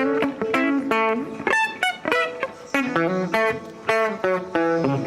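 Electric guitar playing a quick run of single picked notes, several a second, some of them bent up or sliding in pitch.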